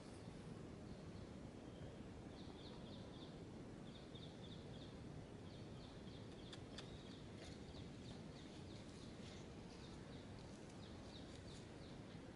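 A bird calling faintly in quick runs of short high notes, repeated in little bursts every second or so, over steady low background noise.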